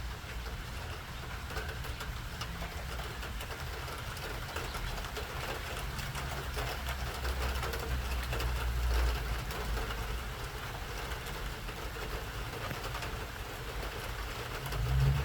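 Steady rain falling, with a fine patter of drops and a low rumble of rainwater running in the gutters that swells about eight seconds in.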